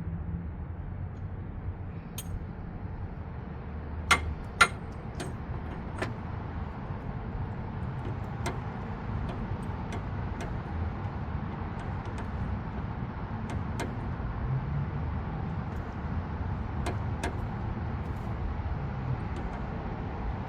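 Scattered metallic clicks and clinks of a socket wrench and tools working on a seized radiator fan temperature sensor, with two sharper knocks about four seconds in, over a steady low background rumble.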